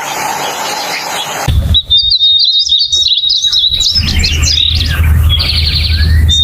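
Painted bunting calling: many quick high chirps and twitters over a thin high tone, with a rapid trill about five seconds in. A hissing noise fills the first second and a half and cuts off abruptly, and a low hum runs beneath the calls.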